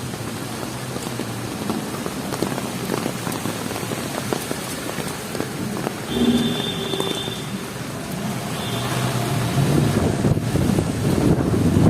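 Heavy rain falling steadily on the street, with a brief pitched tone about six seconds in. A vehicle's engine grows louder toward the end.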